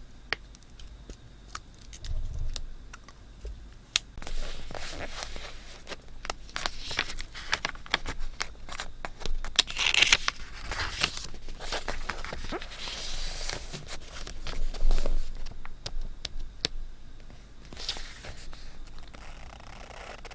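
Paper being handled for scrapbooking: irregular rustling, crinkling and scraping with many small taps and clicks, loudest about halfway through and again a few seconds later.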